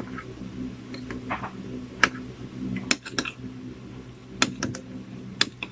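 Spoon clinking against a bowl in a few separate sharp taps while stirring thick chocolate rice porridge with milk, over a steady low hum.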